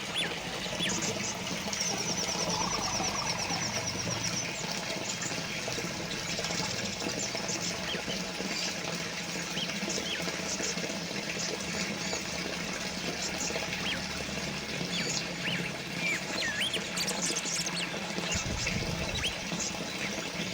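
Small water fountain trickling and splashing steadily, with birds chirping over it; a rapid trill of quick repeated notes comes about two seconds in.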